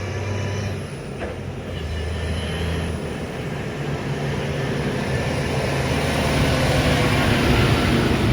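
Heavy truck's engine running, growing steadily louder as the truck approaches, with road and tyre noise rising along with it.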